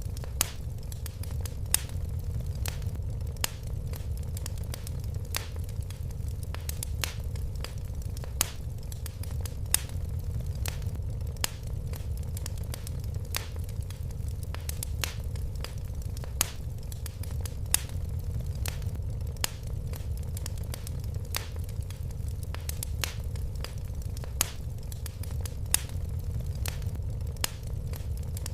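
Wood fire crackling in a fireplace: frequent sharp pops and snaps, a few louder than the rest, over a steady low rumble of the flames.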